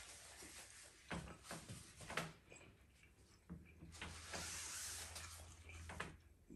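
Faint sounds of a person chewing a mouthful of food: a few soft mouth clicks in the first half, then a longer breathy stretch past the middle.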